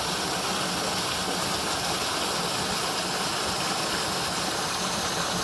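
Steady rushing roar of a waterfall, an even hiss of falling water with no breaks.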